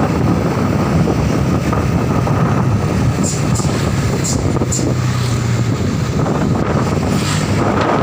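Truck running steadily, a continuous engine and road noise with a low hum, with wind buffeting the microphone.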